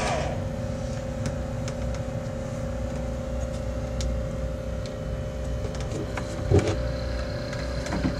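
A loud droning machine hum cuts off right at the start. A quieter steady low hum from the egg incubator's running machinery is left, with a few faint clicks and a single knock about six and a half seconds in.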